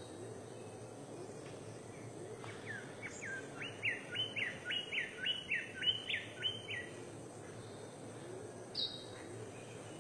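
A bird calling a quick series of about a dozen sharp, rising notes, roughly three a second, lasting about four seconds before stopping.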